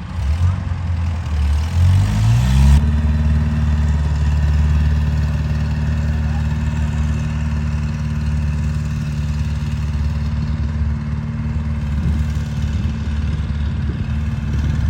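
Kubota combine harvester's diesel engine revving up over the first three seconds or so, then running steadily at high speed.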